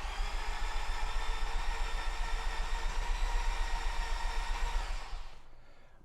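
The starter motor cranks the 1.4-litre MultiAir turbo four of a 2018 Fiat 124 Spider for about five seconds, fast and even with no firing, and then stops. With the throttle floored the injectors are cut. The engine has no compression, which the owner puts down to oil draining out of the MultiAir unit's reservoir while the car sat.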